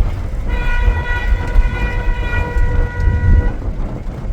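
A vehicle horn sounding one long, steady note for about three seconds, over a constant low rumble.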